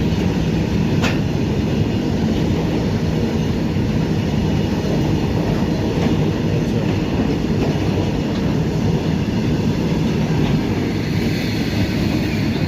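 Indian Railways goods train running past: a steady rumble of its wheels on the rails, with occasional clicks over the rail joints.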